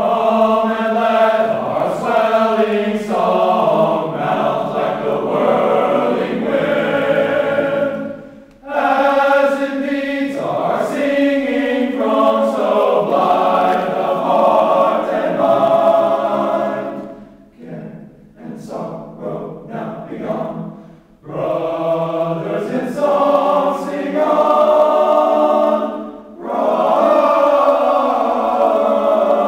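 A small group of voices singing a hymn together, phrase by phrase, starting suddenly and with short breaks between phrases; a quieter, broken stretch comes about two-thirds of the way through.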